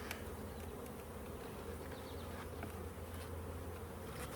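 Honey bees buzzing steadily around an open hive, a swarm of wingbeats in one even hum.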